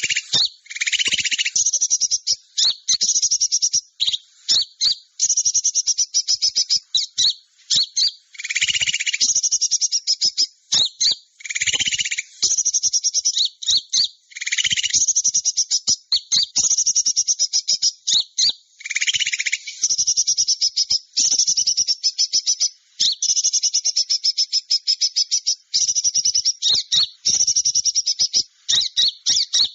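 Small-bird lure call (suara pikat): dense, rapid high-pitched chirping trills repeating almost without pause, with a lower buzzy call breaking in about five times.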